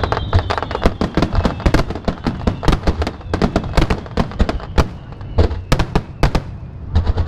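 Fireworks finale barrage over the sea: a dense run of sharp bangs and crackles, many a second, with deeper booms under them. The bursts thin out briefly near the end, then pick up again.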